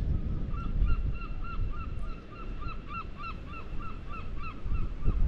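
A bird calling in a fast run of short, repeated notes, about four a second, over a steady low rumble.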